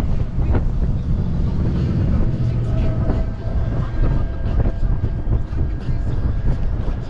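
Steady low vehicle rumble with scattered knocks, like road and traffic noise heard while riding.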